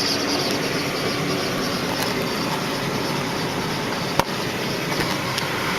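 Steady rush of the 1993 Lincoln Town Car's ventilation blower with the engine running, heard inside the cabin, with one sharp click about four seconds in.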